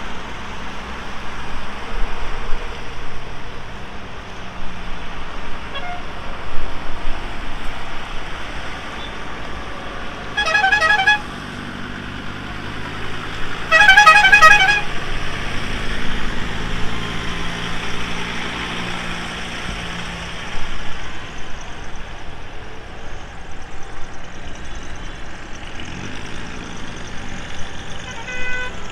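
Tractor engines running steadily as the tractors go by. A horn sounds twice, about ten and fourteen seconds in; the second blast is longer and louder.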